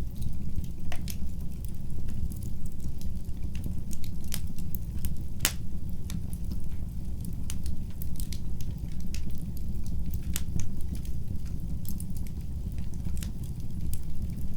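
Fire in a fireplace crackling: scattered sharp pops and snaps over a steady low rumble, with one louder pop about five and a half seconds in.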